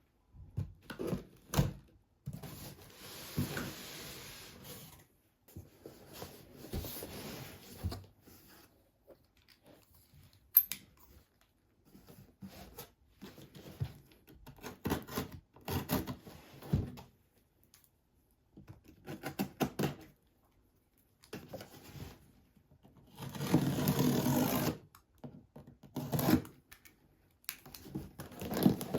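Household handling sounds: a series of light taps and knocks mixed with stretches of rustling, with a louder rustling burst late on.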